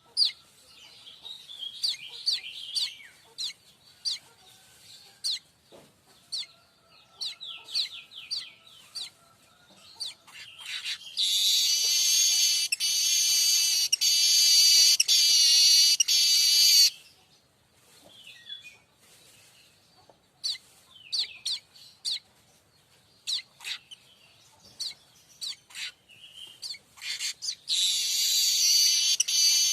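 Manyar kembang weaver singing: scattered sharp chirps and quick sweeping notes, then a long, loud buzzing, sizzling song phrase of about six seconds near the middle, and another starting near the end.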